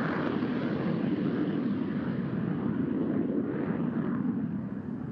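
Jet noise from an F-35C Lightning II's Pratt & Whitney F135 engine as the fighter flies by, a steady deep rumble with a hiss above it that fades away near the end.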